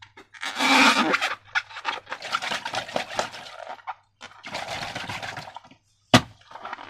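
Slime being squished and worked by hand: wet squelching and crackling in three long bouts, with a single sharp snap a little after six seconds in.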